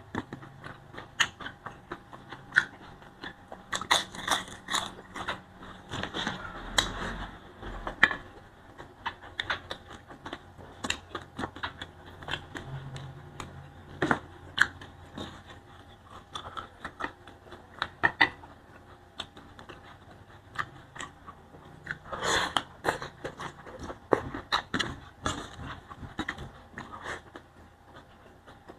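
Close-up chewing and crunching: a person eating boiled green vegetables and rice by hand, with many irregular wet smacks and crisp clicks. The clicks come thickest about four to eight seconds in and again about twenty-two seconds in.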